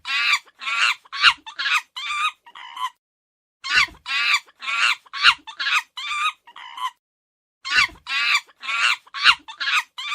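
Chicken clucking in runs of short calls: the same phrase of about seven notes is heard three times, with a short pause between each.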